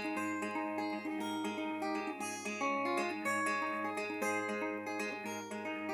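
Acoustic guitar playing a song's chords, strummed and picked, with no singing.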